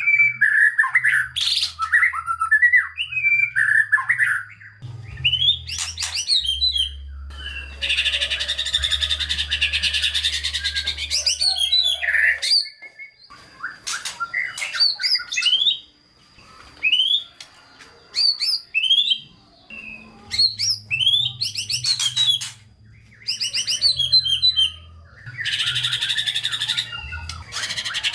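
White-rumped shama singing a loud, varied song full of mimicked calls: quick whistled phrases and sharp chips broken by short pauses, with two long rapid rattling runs, about a third of the way in and near the end.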